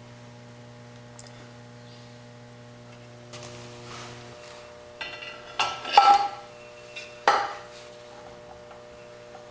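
A steady low hum that stops a little before halfway, then a short run of sharp metallic clinks and knocks, the loudest in the middle of the run.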